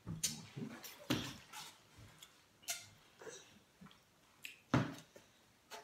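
Close-up eating sounds: irregular wet smacks and clicks of chewing with quiet gaps between, and one sharper click about three-quarters of the way through.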